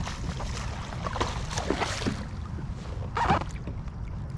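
Water splashing and knocking around a kayak as a hooked bass is fought to the net, over a steady wind rumble on the microphone. The loudest splash comes a little after three seconds.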